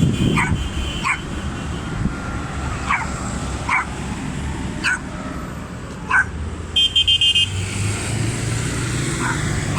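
Tractor engines rumbling steadily as the procession passes, with a dog barking in short, separate barks throughout. About seven seconds in, a horn sounds a quick run of about five loud beeps.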